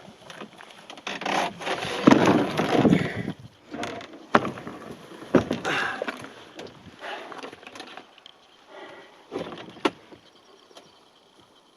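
A kayak being handled on a portage trail: the hull scraping and knocking against the ground, with irregular rustling and a few sharp knocks, growing quieter toward the end.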